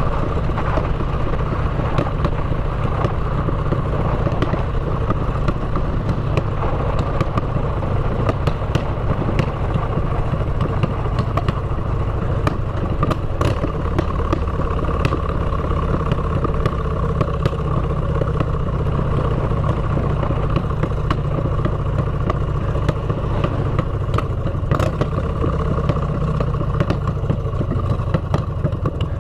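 Motorcycle engine running through aftermarket exhaust pipes while riding, holding a steady, even note with a few short clicks.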